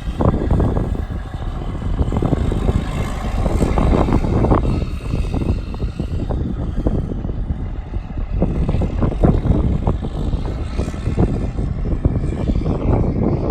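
Diesel engine of a 1999 International 9100-series semi tractor running.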